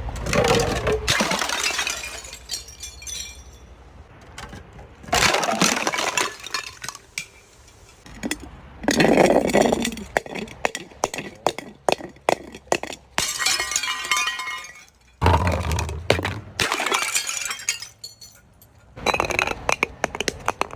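Glass bottles being crushed and breaking, with several separate bursts of shattering and crackling glass and the clink of shards between them.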